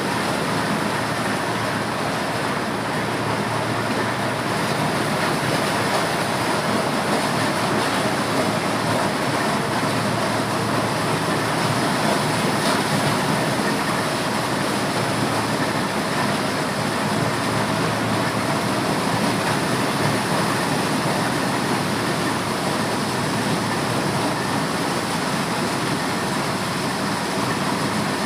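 Corn sheller (maize threshing machine) running with a loud, steady mechanical din that holds even throughout.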